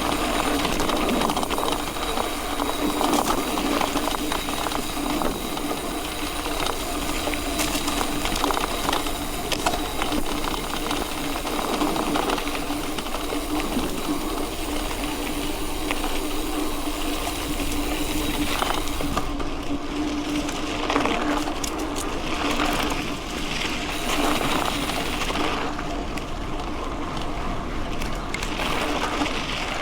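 Mountain bike riding on a dirt road: tyres crunching over gravel with many small clicks and rattles from the bike, over a steady hum.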